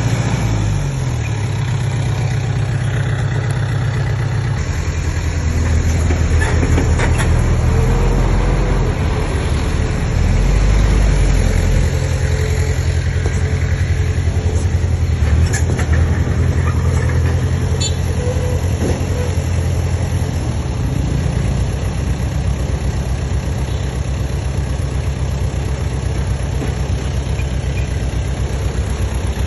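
Komatsu D20P bulldozer's diesel engine running, its pitch stepping up and down several times as the load changes and loudest about a third of the way in. A few sharp metallic clicks are heard over it.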